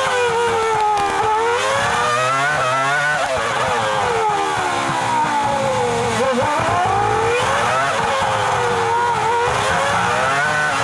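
Formula 1 V10 engine heard onboard at high revs, its pitch climbing and falling over and over as the car accelerates, changes gear and brakes for corners.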